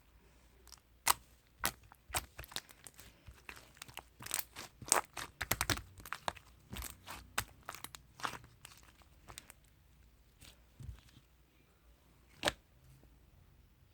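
Slime being squeezed and pressed by hand, making a string of sharp clicks and pops at uneven intervals, thickest in the middle, then sparser, with one last loud pop near the end.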